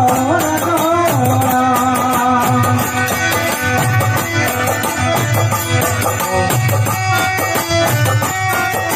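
Instrumental break in a Rajasthani devotional folk song (bhajan): a sustained melody over a steady drum beat and fast, evenly spaced high percussion.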